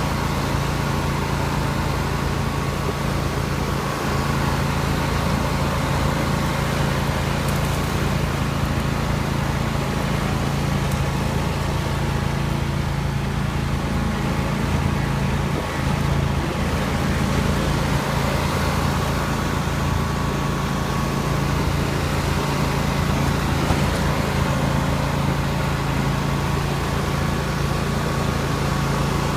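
Riding lawn mower engine running steadily at a constant speed, a continuous drone.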